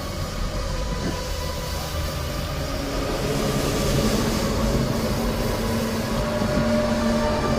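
A loud, low, droning groan: several steady tones over a deep rumble, growing a little louder about halfway, that sounds like distant train wheels or horns. It is one of the unexplained 'strange sounds' heard in the sky in 2012, which the recorder has never heard the like of.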